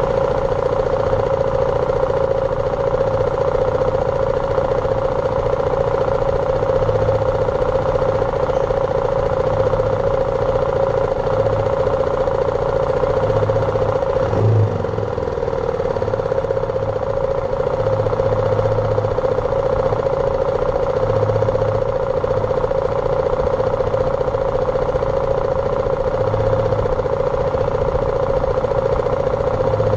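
BMW G310R's single-cylinder engine running steadily under way, with a brief dip in level and pitch about halfway through.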